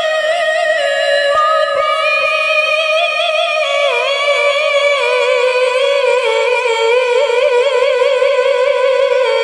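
A woman reciting the Qur'an in melodic tilawah style, holding one long high note without a break, its pitch wavering in quick ornaments, climbing in the first couple of seconds and dipping about four seconds in.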